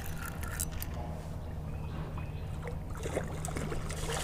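Steady running water from a fast-flowing creek, with faint scattered small splashes and clicks, a few more of them in the second half.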